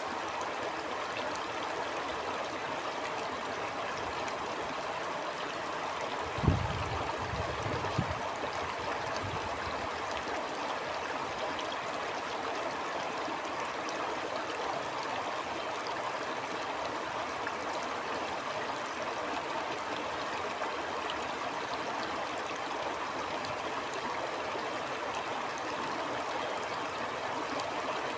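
Stream flowing steadily, an even rushing of water. Two low thumps break in, a louder one about six and a half seconds in and a smaller one a second and a half later.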